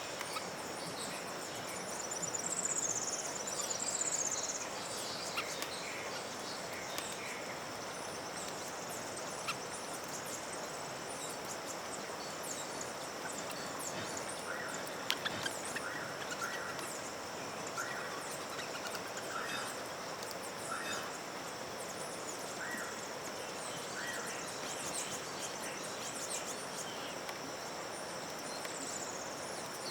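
Wild birds calling: high chirps and trills about two to four seconds in and again near the end, and a run of short repeated notes in the middle. Behind them runs a steady high-pitched insect drone.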